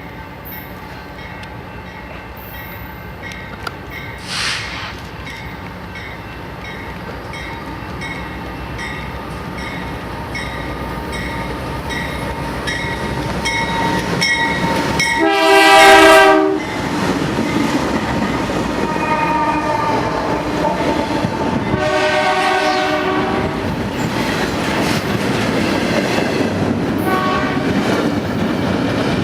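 A train approaching and running past, its noise building steadily. The locomotive horn sounds a long blast about halfway through, the loudest moment, then two shorter blasts near the end, over the rumble and rattle of the train.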